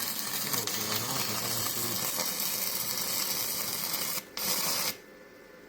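Arc of a 1/8-inch 6011 stick electrode burning on thick steel from a 110-volt welder: a loud, steady crackling sizzle. About four seconds in the arc breaks for a moment, relights for half a second, then cuts off.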